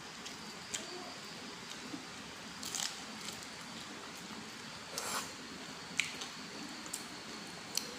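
Close-up eating sounds: a person biting and chewing, with a sharp crunch roughly every second.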